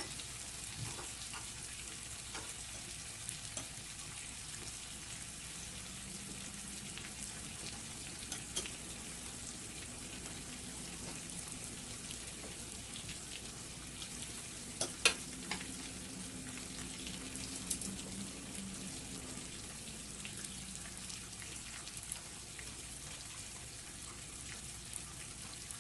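Food sizzling on a hot grill: a steady frying hiss with scattered sharp clicks of utensils, one loud click about fifteen seconds in. A faint low hum comes in at about six seconds and fades out around twenty.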